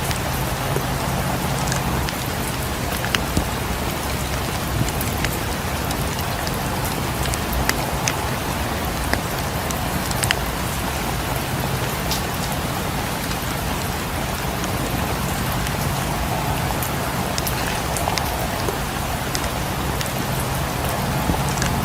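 Steady rain pattering on a cabin and its windows, mixed with a crackling fireplace: an even hiss with scattered sharp pops and ticks.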